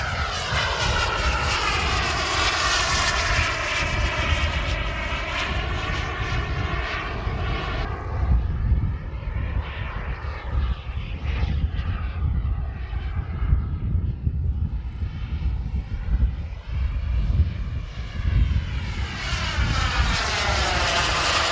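Radio-controlled Alenia Aermacchi M-346 model jet flying overhead, its jet whine dropping in pitch as it passes just after the start, wavering through the middle, and rising again as it comes back near the end, over a steady low rumble.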